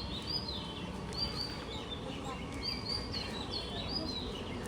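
Small birds chirping: short, high calls, each dropping in pitch, repeated several times a second in spells, over a steady low background rumble.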